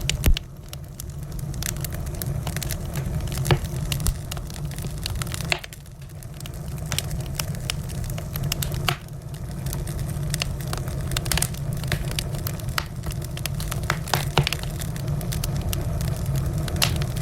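Wood fire in a fireplace crackling, with a steady low rumble of burning and irregular sharp pops and snaps, a few louder than the rest.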